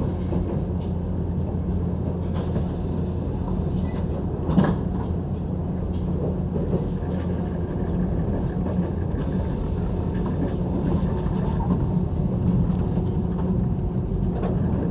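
Steady running noise inside the cabin of a JR 185 series electric train, a low hum with faint clicks, and one sharp knock about four and a half seconds in.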